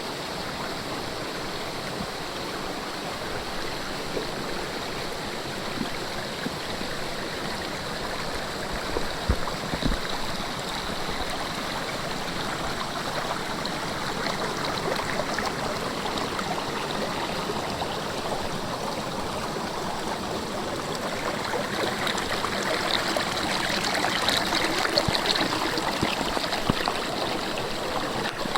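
Saruo Falls, a two-tiered waterfall, falling and splashing: a steady rush of water that grows a little louder in the last third. A couple of brief low thumps about nine seconds in.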